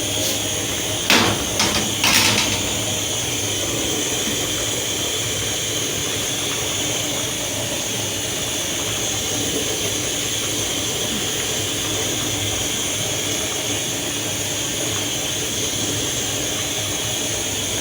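Steady hiss of a pot of okra soup cooking on the stove, with two short knocks about one and two seconds in.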